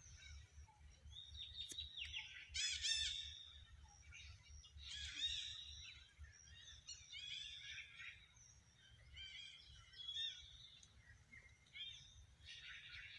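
Birds chirping in several short bursts of quick, high arched notes, the loudest phrases about three and five seconds in, over a faint low rumble.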